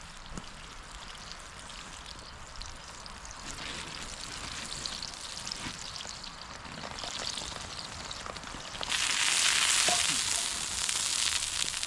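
Vegetable oil sizzling in a frying pan on a campfire as the pan is seasoned, growing louder about three seconds in and loudest for a couple of seconds near the end.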